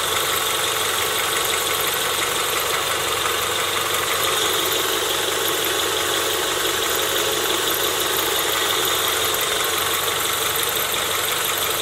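Car engine idling steadily after a valve cover gasket and spark plug change, run without its power steering belt.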